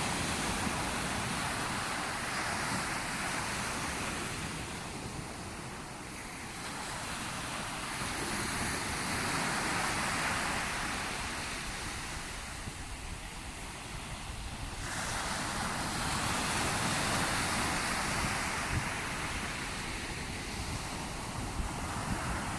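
Sea waves breaking and washing on the shore, the surf swelling and easing about every six to seven seconds, with wind rumbling on the microphone.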